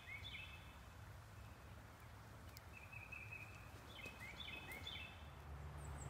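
Faint bird chirps outdoors: three groups of short, high chirping notes over a low steady rumble.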